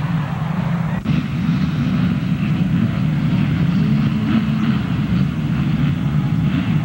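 Motocross bike engines running as a steady low rumble, with a brief break about a second in.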